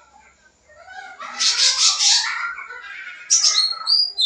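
Cucak ranting songbird singing. After a quiet first second comes a loud, harsh chattering phrase, then clear short whistled notes near the end.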